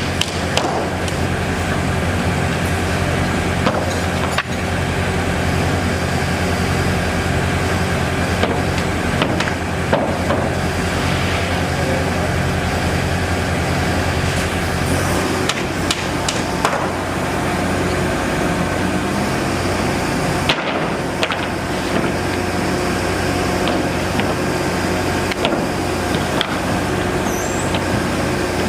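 A large engine running steadily at an even speed, with occasional sharp knocks and clanks scattered through.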